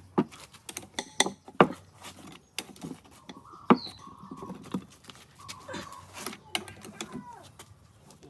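Irregular sharp taps and clinks of metal engine parts and tools being handled, with faint high squeaks in between.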